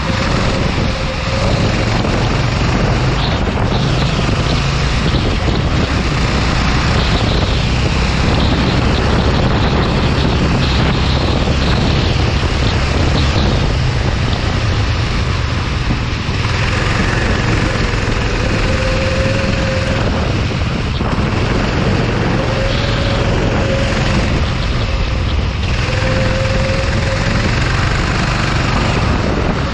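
Racing kart engine running under heavy wind noise on the microphone, its pitch rising several times in the second half as it accelerates.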